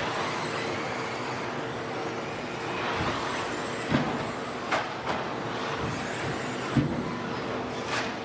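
A pack of 1/10-scale 2WD stadium trucks with 13.5-turn brushless electric motors racing on a dirt track: several high motor whines rising and falling in pitch over a steady tyre and drivetrain noise, with a few sharp thuds.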